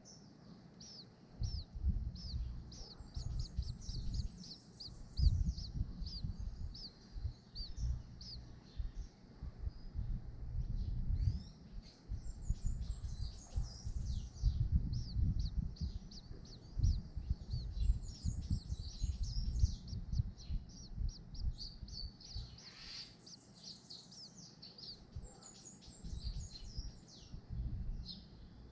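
Birds chirping in a rapid, continuous high-pitched twitter of quick down-sweeping notes, over a low, uneven rumble.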